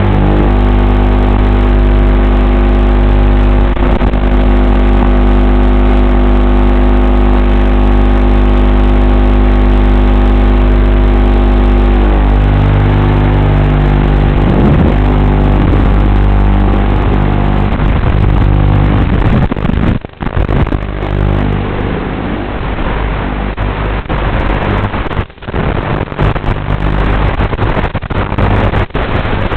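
FPV racing-quad motors and propellers whining steadily, their pitch shifting and gliding with throttle. The sound cuts out briefly twice, at about 20 s and about 25 s in, as the throttle is chopped.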